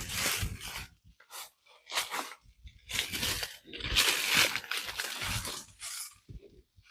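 Irregular crunching and rustling of dry leaves and brush, as from footsteps pushing through undergrowth, in uneven bursts with the longest and loudest around the middle.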